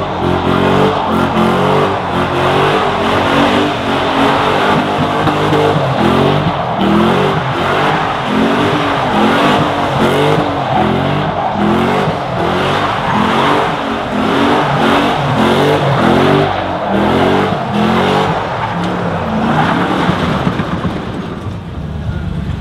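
A truck doing a burnout: the engine revs up and down over and over, about once a second, over a steady screech of spinning tires.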